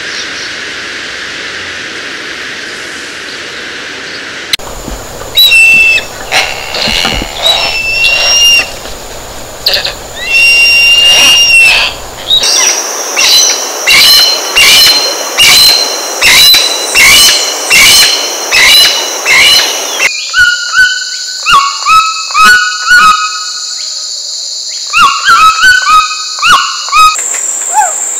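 Recorded calls of several tropical forest bird species, spliced one after another. A steady hiss comes first, then clear whistled notes, then a fast even series of sharp calls about two a second, then a run of short falling notes lower in pitch.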